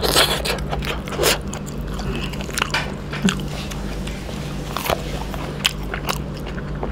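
Close-up mouth sounds of a person chewing a hand-fed mouthful of fried chicken innards and rice: irregular wet smacks, clicks and crunches.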